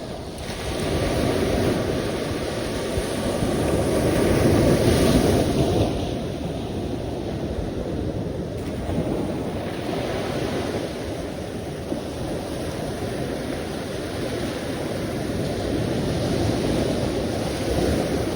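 Sea waves surging and washing in, a steady rushing wash that swells to a peak about five seconds in, then rises and falls more gently twice more.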